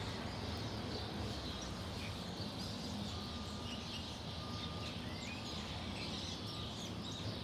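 Outdoor background noise, steady and even, with faint scattered bird chirps over it.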